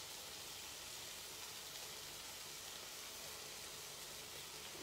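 Burger patties sizzling steadily in a frying pan, a faint even hiss.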